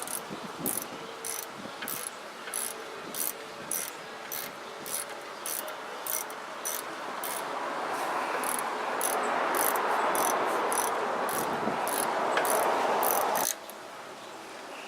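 Ratchet wrench clicking in a steady rhythm, a little under two clicks a second. A rushing noise swells under it in the last few seconds, and both cut off suddenly.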